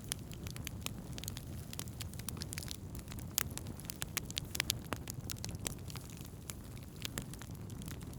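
Wood campfire crackling: irregular sharp pops and snaps, thickest in the middle, over a steady low rumble.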